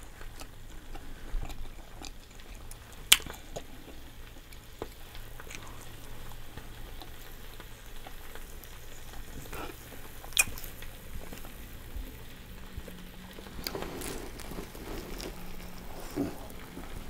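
Close-miked chewing and wet mouth sounds of someone eating a cheesesteak sandwich, a soft crackly smacking with scattered sharp clicks; the two sharpest come about three and ten seconds in.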